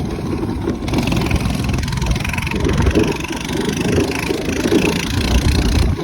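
Minibike's small engine running, its pitch wavering up and down.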